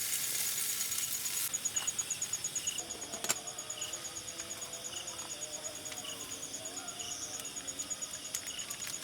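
Insects chirping in a rapid train of high pulses, with a softer, lower chirp about once a second. A hiss stops about one and a half seconds in, and there is a single sharp click about three seconds in.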